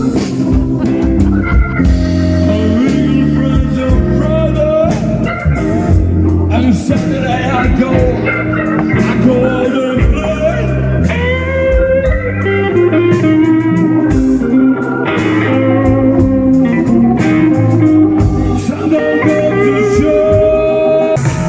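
Blues band playing live: guitar lines over a steady bass line and drums.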